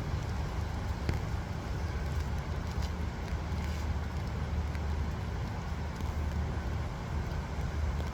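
Steady low rumbling background noise with a light hiss over it and a few faint clicks.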